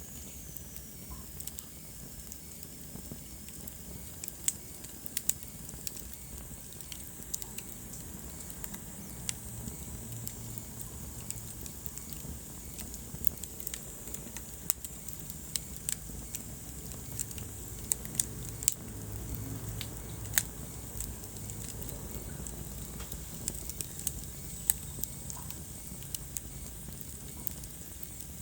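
Wood fire burning in a fireplace: irregular sharp crackles and pops over a steady low rumble of the flames, with a faint high hiss.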